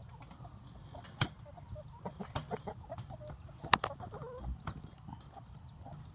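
Chickens clucking softly as they peck at a watermelon, with sharp beak taps, the loudest nearly four seconds in, and faint high peeps.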